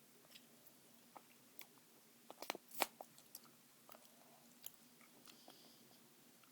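A person chewing gum close to the microphone: soft, scattered wet clicks and smacks, with a louder cluster of clicks about two and a half seconds in.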